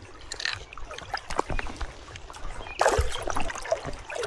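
Water splashing and trickling around a hooked pike being fought on light tackle in shallow river water, with a loud splash about three seconds in.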